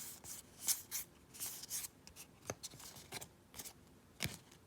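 Magic: The Gathering cards being handled, slid and flicked against each other: a run of short, quick rustles and scrapes.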